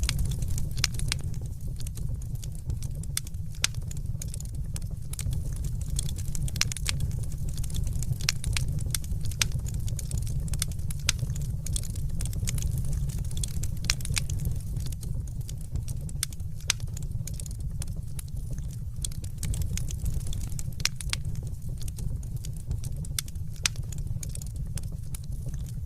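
Fire crackling in a fireplace: a steady low rumble of flame with frequent sharp pops and snaps scattered irregularly.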